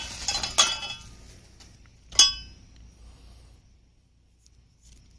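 Metal parts of a chainsaw mill kit clinking against each other as they are handled and set down: a light clink in the first second and one loud, ringing clink about two seconds in, then a couple of faint ticks.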